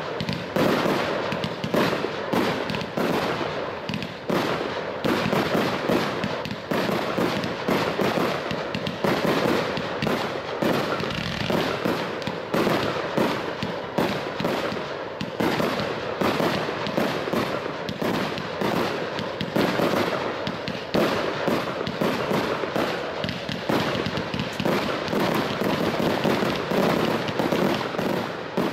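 Large professional fireworks display: a dense, rapid run of aerial bursts and bangs, several a second, going on without a break.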